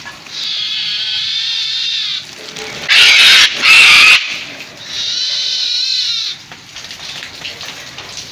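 An animal calling: a long high-pitched call, then two very loud harsh screeches, then another high call that rises and falls.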